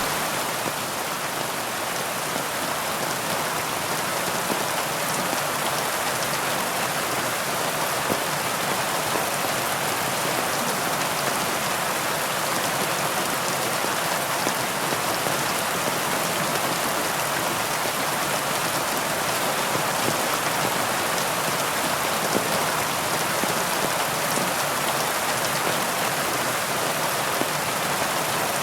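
Heavy rain falling steadily, a dense even patter of raindrops with no thunder or lulls.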